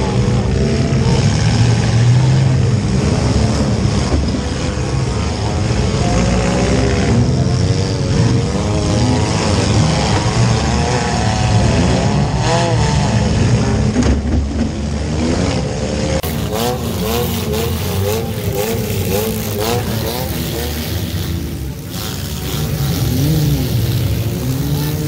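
Demolition derby cars' engines running and revving up and down, heard first from inside a compact derby car. About 16 seconds in, the sound cuts to a brighter trackside recording of several derby cars revving.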